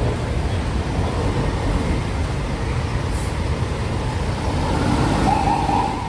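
Steady road traffic noise: the low rumble of vehicle engines running on the street, with a brief whine about five seconds in.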